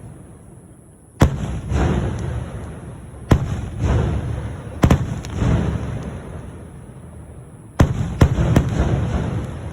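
Fireworks bursting: about six sharp bangs, the last three in quick succession near the end, each trailing off in a rumble.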